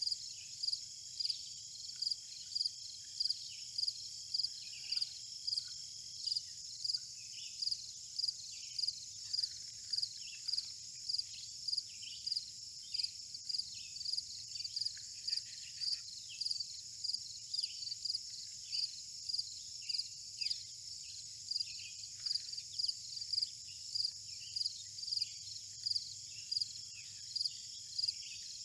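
Insects chirping in a steady rhythm, a little under two chirps a second, over a continuous high-pitched insect buzz, with faint short descending chirps scattered through.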